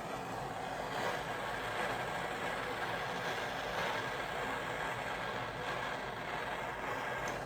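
Torch flame hissing steadily as it heats a seized steering wheel hub to break it loose from the tractor's steering shaft.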